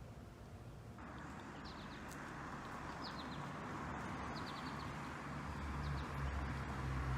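Small birds chirping: short high chirps in a few quick runs over a steady background hiss.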